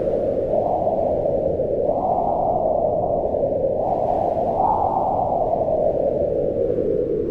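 Howling mountain wind: a steady, deep rushing whose pitch rises and falls slowly as gusts swell and ease.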